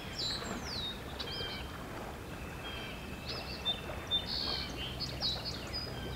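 Several wild birds singing and calling over one another: short whistled notes and quick rising and falling phrases.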